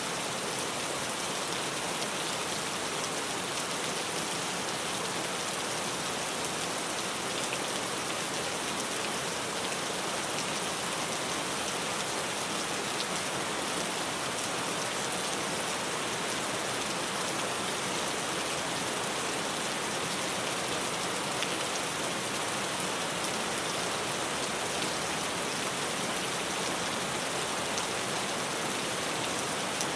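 Steady rain falling on a tin roof, an even hiss of drops throughout with no thunder.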